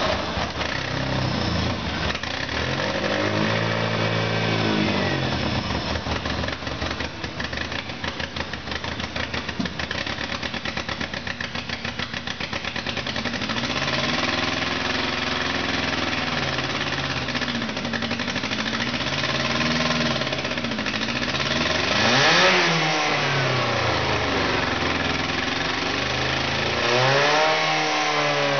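2000 Toyota Corolla's 1.8-litre four-cylinder engine running under test, idling and revved repeatedly by the throttle: a rev about four seconds in, a series of rises and falls in the middle, a sharp rev about 22 seconds in and another near the end.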